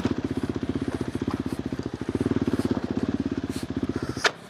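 KTM 390 Adventure R's single-cylinder engine, fitted with a Norifumi Whoops slip-on exhaust, chugging at low revs in even pulses. Near the end a sharp knock sounds and the engine cuts out abruptly: it has stalled.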